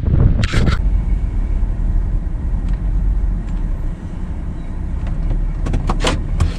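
A vehicle driving: a steady low rumble, with a couple of brief rattling knocks about half a second in and again near the end.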